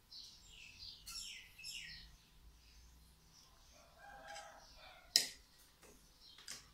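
Faint chirping of birds, a run of short falling chirps in the first two seconds and a lower call around four seconds in. A single sharp click just after five seconds is the loudest sound.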